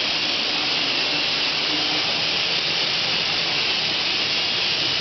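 Water spraying steadily from a newly installed dual low-flow shower head, a constant hiss at good water pressure.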